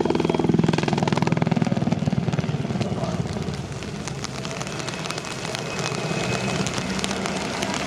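Military search-and-rescue helicopter flying past, its rotor blades chopping in a fast, even beat over a steady engine drone. It is loudest for the first few seconds, then eases off.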